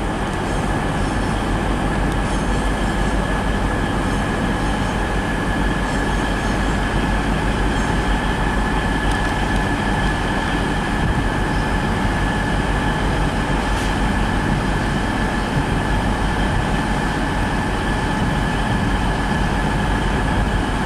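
Class 395 Javelin electric multiple unit running slowly past, its rumble steady with a steady high whine held over it.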